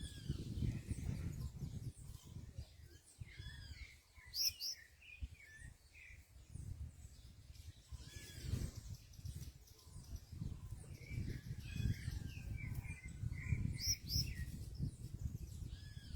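Small songbirds around a fruit feeder giving short, curling chirps in several scattered bursts, over a steady low rumbling background noise.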